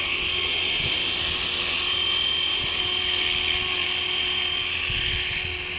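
E-Razor 450 electric RC helicopter hovering, its motor and rotor giving a steady high whine. Low gusts of wind buffet the microphone now and then.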